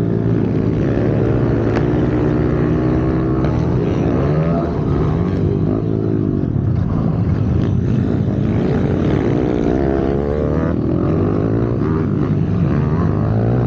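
Pit bike's single-cylinder engine under race load, its pitch rising and falling over and over as the throttle is opened and closed.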